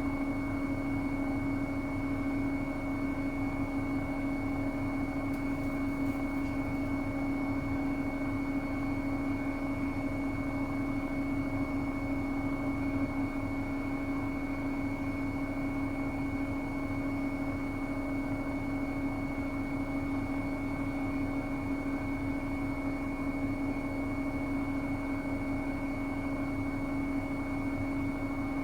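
Bosch Serie 8 WAW32590 front-loading washing machine in its high-speed final spin, the drum turning at a steady speed with a constant motor whine over an even rushing noise.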